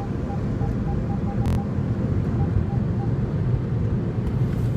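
Automatic car wash dryer blowers blowing air over the car, a steady low rushing heard from inside the cabin. A row of faint short beeps sounds over the first three seconds, with a single click about a second and a half in.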